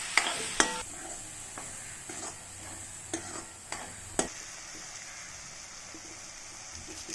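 Onion, tomato and ground-spice masala sizzling as it fries in a kadai, stirred with a steel spoon that scrapes and knocks against the pan several times in the first four seconds; after that only the steady sizzle.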